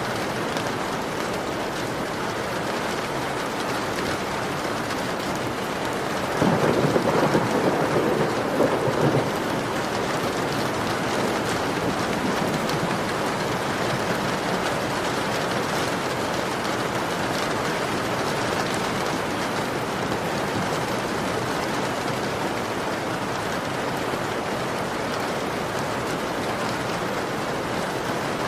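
Heavy rain beating on a window, a steady dense hiss. About six seconds in, a louder, lower-pitched rush swells for about three seconds before the rain settles back to its even hiss.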